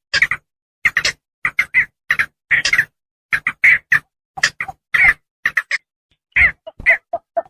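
Javan pond heron calling: short squawking notes in quick runs of two to five, with short silent gaps between runs.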